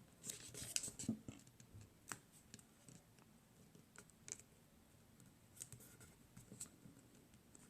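Faint crackling and rustling of a square sheet of origami paper being creased and handled by fingers, in short scattered crackles.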